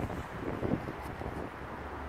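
Wind buffeting the microphone: a steady, uneven low rumble with no clear distinct sounds.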